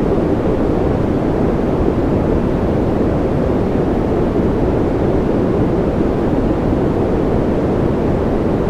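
Steady, unbroken rushing noise from a white-noise sleep track, deep and muffled with little treble and no separate drops or other events.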